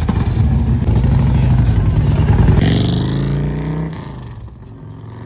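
Car engine running loud, then revving with its pitch rising before it drops off about four seconds in.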